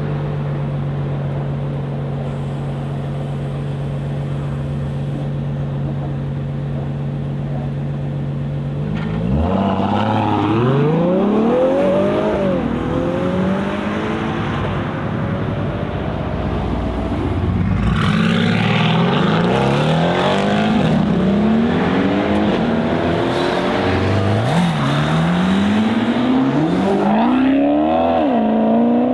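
Sports car engines: a steady low drone at first, then from about a third of the way in, hard accelerations with the revs climbing and dropping back at each gear change, several times over.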